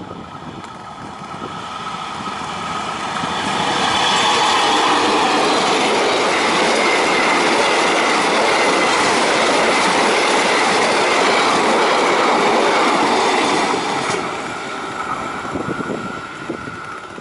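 Diesel-hauled passenger train passing close by: the sound of the train builds over a few seconds, stays loud for about ten seconds as the coaches run past on the rails, then falls off as the train moves away.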